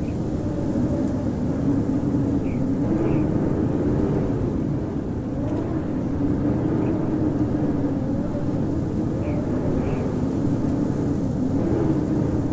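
Howling wind: a steady rush with a moaning tone that slowly rises and falls.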